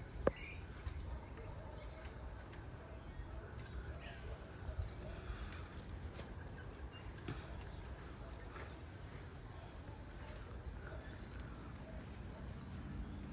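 Quiet garden ambience: a steady, high, thin insect drone with a few faint, scattered bird chirps and one soft click just after the start.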